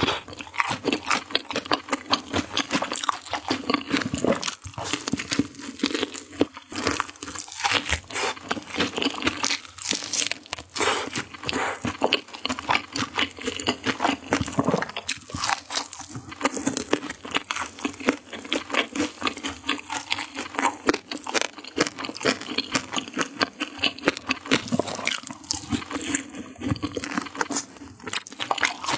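Close-miked crunching and chewing of crispy fried chicken: rapid, dense crackles of the fried coating between the teeth, going on without a break.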